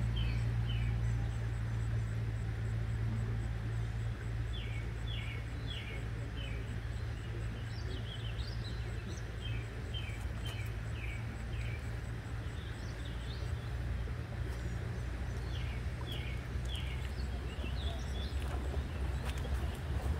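A bird calling in short runs of three or four quick chirps, repeated every few seconds, over a steady low rumble.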